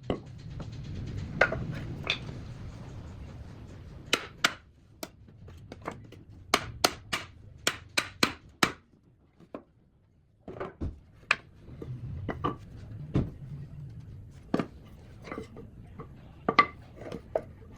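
Sharp wooden knocks and taps from hand tools striking shisham wood, irregular at first, then a quick run of about eight taps in the middle.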